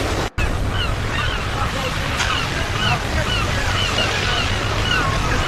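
Ocean surf washing steadily, with many short high chirps scattered over it. The sound cuts out briefly just after the start.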